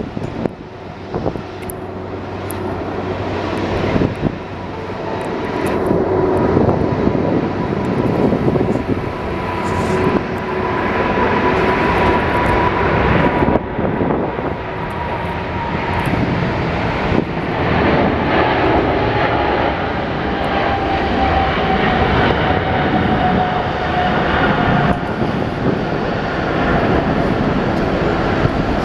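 Jet airliner passing close, its engine noise building over the first several seconds and then staying loud, with a whining tone that slowly falls in pitch.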